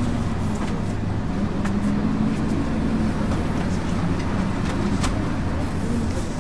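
A 1999 MAN ÜL 353 bus driving, heard from inside the bus: a steady diesel engine note over the low rumble of the ride. The engine pitch sinks a little and then rises again near the end, with a few short rattles.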